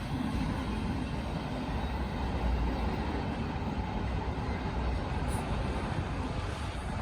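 Norfolk Southern train rolling through a road crossing, a steady low rumble.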